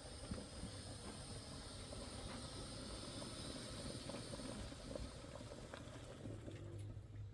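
Steady hissing noise with a few faint scattered ticks, and a thin high whine that fades out about two-thirds of the way through.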